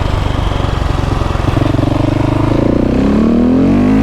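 KTM 690 SMC R's single-cylinder engine through a Leo Vince exhaust, heard on board: steady at first, then the note rises steadily from about a second and a half in as the bike accelerates.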